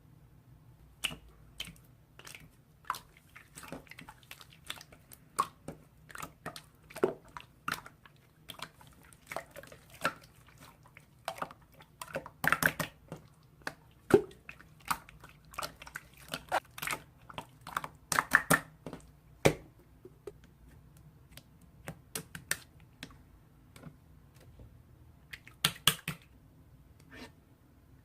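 Slime being squished and pressed by hand, giving a run of irregular sticky clicks and small pops, with a few louder clusters in the middle and near the end.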